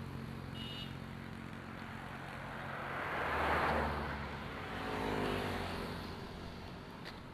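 Motor vehicles passing on a road: one goes by loudly about three and a half seconds in, and a second, quieter one about five seconds in.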